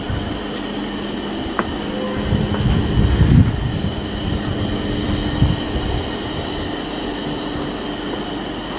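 Steady mechanical running noise with a constant hum, with heavier low rumbling from about two to three and a half seconds in and a sharp click near the start.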